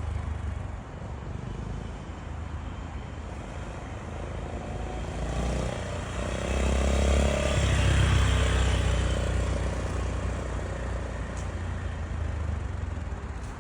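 Honda GB350's air-cooled single-cylinder engine running through its stock exhaust, growing louder about halfway through and then easing back.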